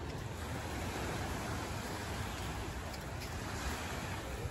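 Sea surf washing onto a beach: a steady hiss that swells through the middle and eases near the end, over a low rumble.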